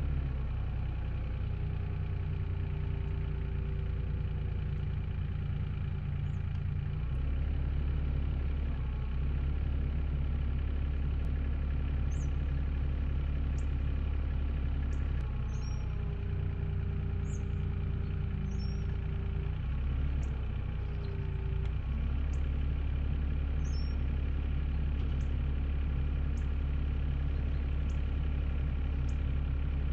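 Excavator's diesel engine running steadily, its note shifting a few times as the load changes. A steady whine comes in twice, for a few seconds each time.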